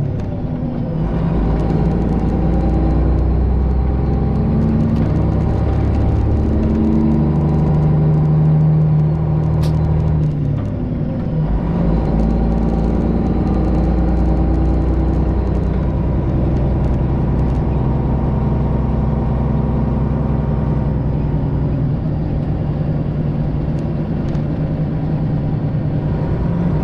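Straight-piped Detroit Diesel 12.7 engine of a semi truck running under load down the road, heard from the cab, its exhaust note steady with a brief break and change in pitch about ten seconds in before it picks up again.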